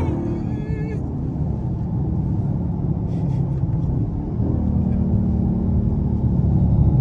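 Dodge Charger R/T's 5.7 HEMI V8 running through a mid-muffler-delete exhaust: a steady low drone that gets gradually louder over the last few seconds.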